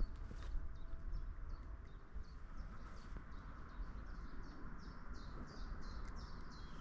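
A bird calling in a long series of short, quickly repeated chirps, about two to three a second, over a steady outdoor hiss and low wind rumble on the microphone.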